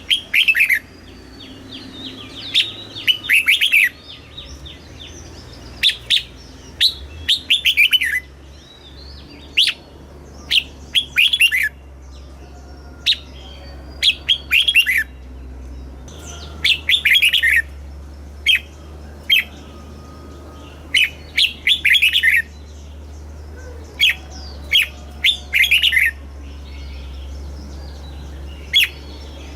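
Red-whiskered bulbul singing: short bursts of quick whistled notes, repeated every second or two, over a steady low hum.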